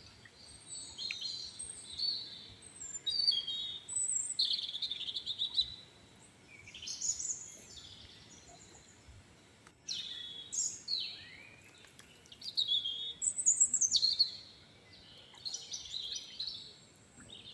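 Songbirds singing and chirping in short, high, repeated phrases, with brief quiet gaps between them.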